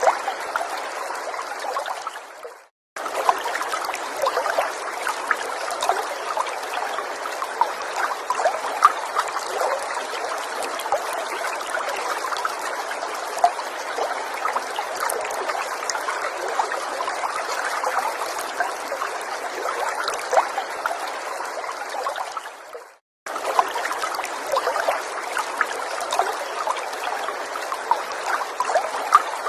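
Small forest stream trickling steadily over stones, full of small quick splashes. The sound fades away and drops to silence for a moment about three seconds in and again about twenty-three seconds in, then cuts straight back in.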